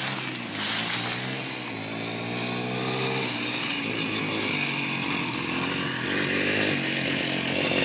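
Honda XR100R dirt bike's single-cylinder four-stroke engine revving as it is ridden and jumped: the pitch climbs and falls over the first few seconds, then the engine runs steadier.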